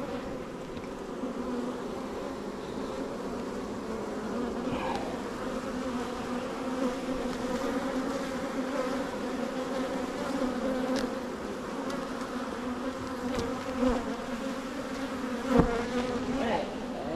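Steady hum of a mass of honeybees buzzing around an opened hive, with a few short knocks of the hive parts and frames being handled, the loudest about three-quarters of the way through.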